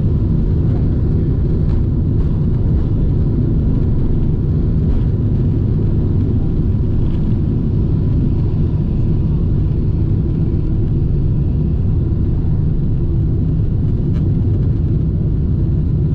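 Boeing 747-8 engines and airframe heard from inside the passenger cabin during takeoff: a loud, steady, low rumble that stays even throughout.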